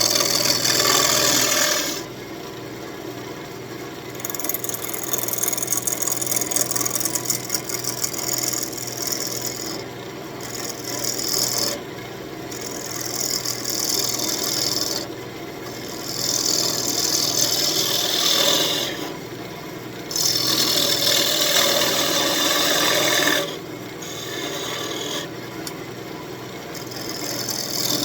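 A small gouge cutting a spinning elm spoon blank on a wood lathe, in repeated hissing passes of one to five seconds each. The lathe motor hums steadily underneath between the cuts.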